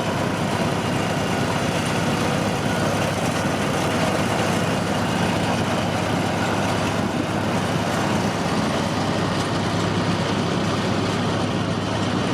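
Steady running noise of a tourist train, heard from aboard a passenger car: an even rumble and rattle with a low hum, unchanging throughout.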